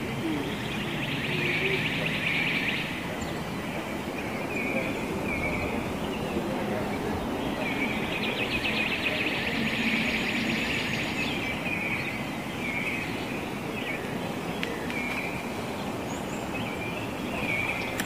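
Wild birds chirping, with short calls repeated about once a second and two spells of fast trilling, over a steady background hiss.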